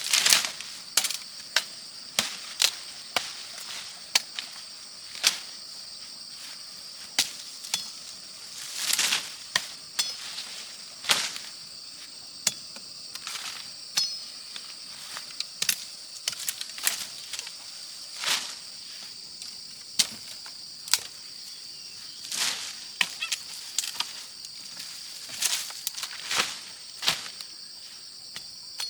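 Irregular sharp strikes, one to three a second, such as chopping or hacking blows, over a steady high drone of insects.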